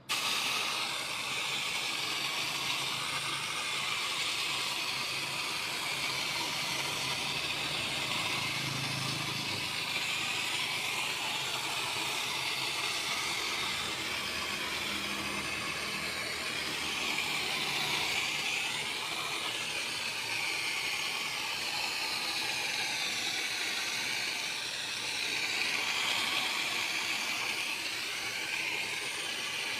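High-pressure water spray hissing steadily onto a car's engine bay, its tone wavering up and down.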